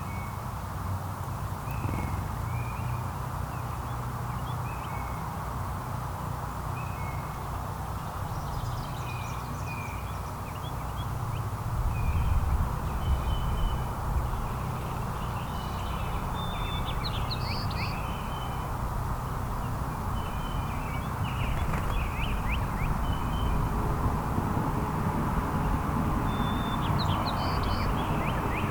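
Small backyard songbirds chirping: short, scattered high chirps throughout, over a steady low background rumble.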